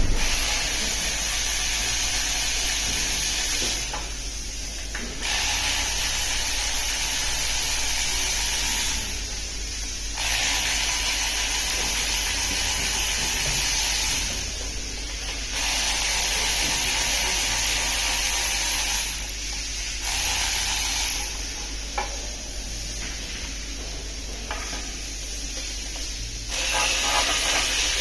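A hissing spray comes in repeated bursts of about three to four seconds each, with short pauses between them.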